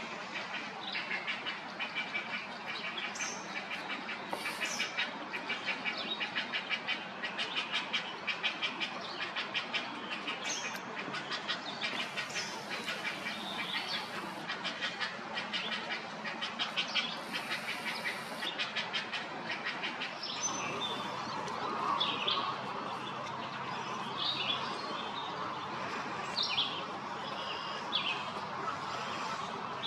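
Birds calling: a fast, steadily repeated pulsing chatter for most of the stretch, giving way about two-thirds in to scattered separate chirps and calls.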